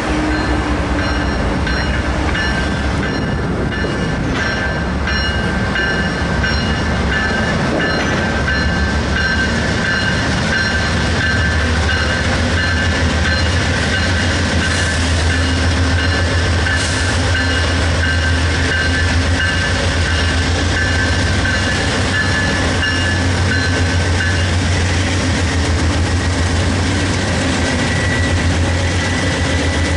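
Norfolk Southern freight train led by diesel locomotives approaching and passing close by. Steady low engine rumble that grows stronger about halfway through, with a steady high whine over it.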